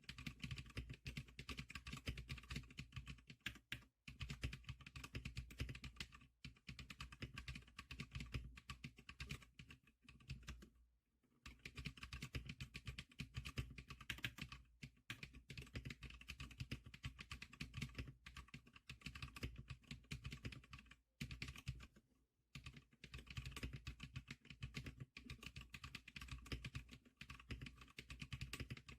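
Continuous fast typing on the G-Clicker SPK100 keyboard, a dense run of key clicks broken by a few short pauses.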